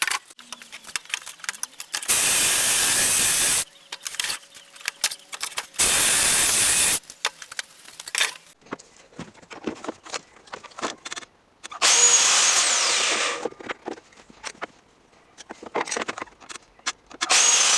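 Power saw cutting reclaimed plywood in four short bursts of a second or so each: about two seconds in, about six seconds in, around twelve seconds and again near the end. Between the cuts there are light clicks and knocks from handling the wood.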